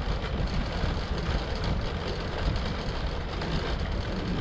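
Loaded shopping cart rolling over asphalt, its wheels and wire frame giving a steady rattling rumble.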